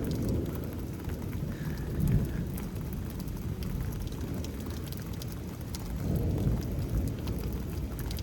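Steady rain falling during a thunderstorm, with faint drop ticks. Low thunder rumbles swell about two seconds in and again near the end.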